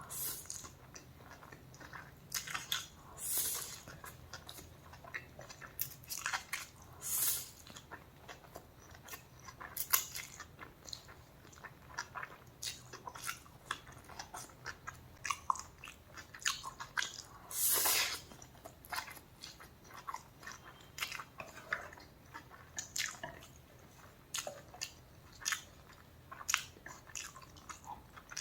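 Close-miked eating sounds: a person chewing and biting food, with irregular wet mouth clicks and some crunchy bites.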